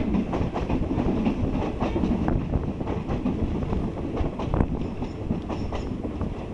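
Passenger train running along the track, heard from on board: a steady rumble with many sharp clacks of the wheels over the rail joints.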